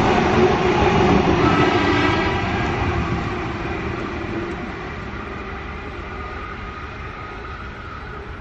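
Double-deck electric passenger train passing, with a steady motor whine over rumbling wheel-on-rail noise. The last carriages go by in the first two seconds or so, then the sound fades steadily as the train moves away.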